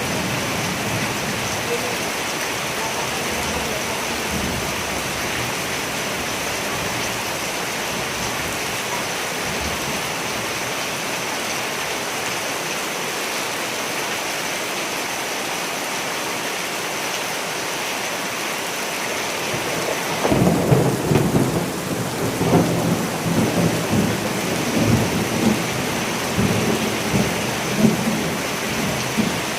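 Steady rain falling, then about two-thirds of the way in a long rolling rumble of thunder with irregular louder peaks that runs on almost to the end.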